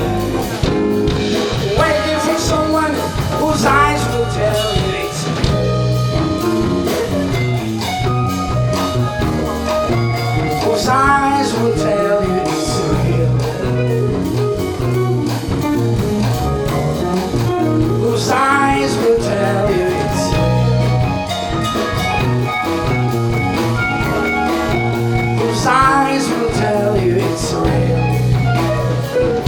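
Live band playing a jazz-pop song, with a stepping bass line under a lead melody that slides and wavers in pitch.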